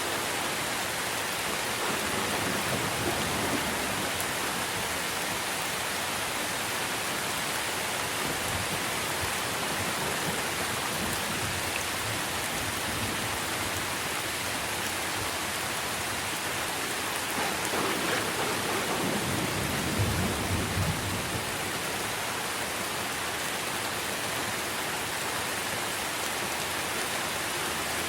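Steady rain falling on trees and foliage, a dense, even hiss. About two-thirds of the way through, a low rumble of distant thunder swells briefly.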